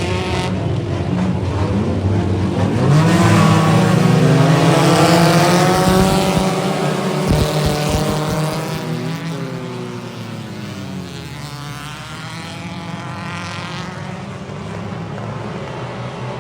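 Race car engines on a dirt oval track: an engine rises sharply in pitch and gets loud about three seconds in, then falls in pitch and fades as the cars go by, with other engines still running in the background.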